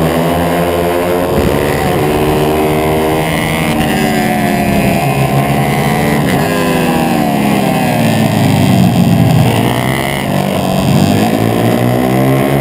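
Racing pit bike's single-cylinder engine running hard, its pitch dipping about halfway through as it slows for a corner and climbing again as it accelerates out, with wind noise and other bikes' engines close by.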